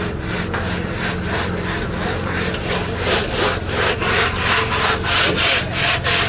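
Rhythmic back-and-forth scraping, about three strokes a second and getting stronger about halfway through: hand-scraping or brushing mud and debris off the exposed water main pipe. An engine runs steadily underneath.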